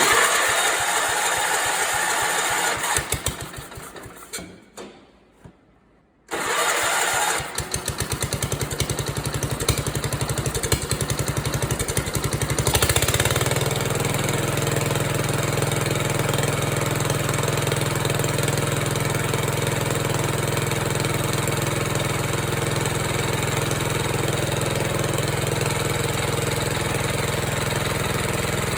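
Allis-Chalmers 416 garden tractor engine started on starting ether: after a few seconds of hiss, it catches about six seconds in, runs roughly for several seconds, then settles into a steady run on its own fuel.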